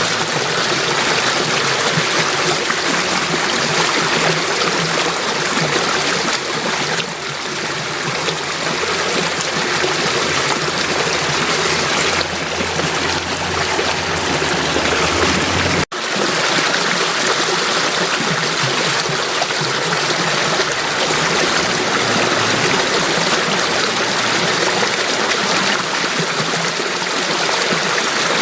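Steady rushing and trickling of a flowing stream. About halfway through there is a momentary break in the sound, and a low hum heard under the first half stops there.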